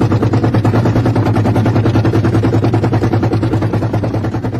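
Car engine running hard from inside the cabin while the car slides through a bend, with a rapid, even stutter of about nine pulses a second over a steady low drone.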